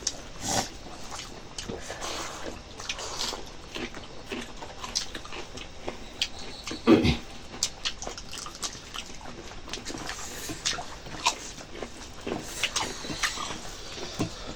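Close-up eating sounds of chicken curry and rice: chewing and wet mouth smacks as irregular clicks, with one louder thump about seven seconds in.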